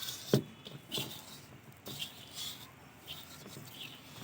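Kitchen handling noises: a sharp knock about a third of a second in, then a few lighter knocks and brief rustles.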